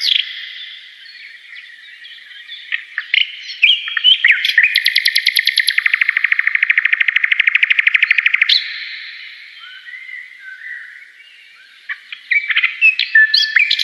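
A songbird singing a varied series of short chirps and whistles, with a long, rapid, evenly pulsed trill lasting about four seconds in the middle.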